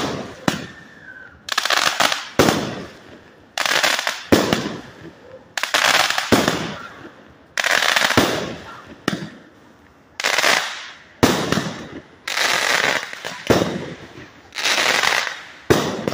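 100-shot firework cake firing in sequence, about one loud report a second, each trailing off over roughly a second.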